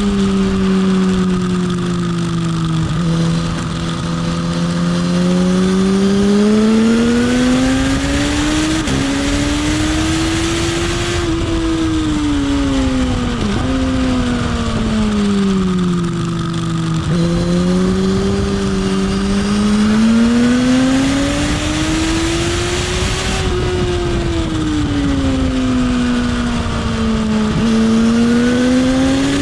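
Motorcycle engine heard from on board while ridden round a circuit. Its pitch rises and falls in long slow sweeps, with brief sudden jumps at the gear changes, over a steady rush of wind.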